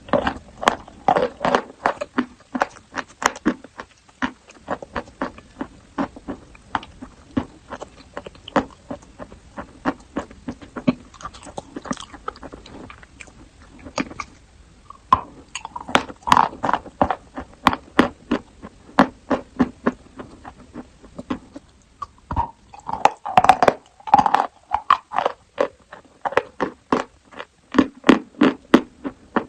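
Close-up crunching and chewing of eating chalk: a dense run of sharp, crisp crunches, about two to three a second, with brief pauses between runs.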